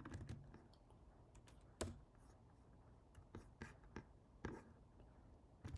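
Faint, scattered clicks of a computer keyboard and mouse, a few separate clicks seconds apart over a low room hum.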